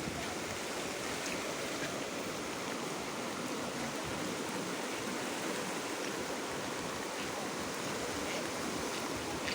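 Swollen Beas river rushing in flood after continuous rain: a steady, even rush of fast water with no breaks.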